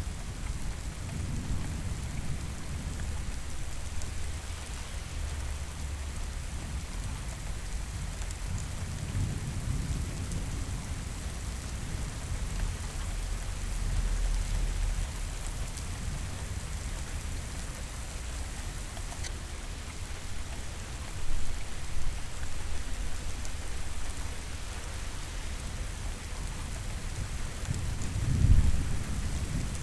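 Steady rain with thunder rumbling low several times; the loudest roll of thunder comes near the end.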